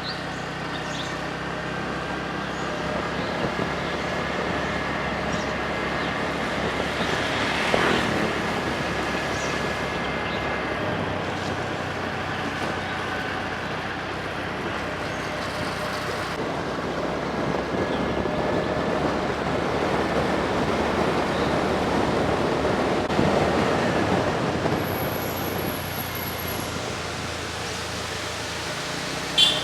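A motorcycle running along the road, its engine under steady wind and road noise that swells and eases gently. There is a short sharp click near the end.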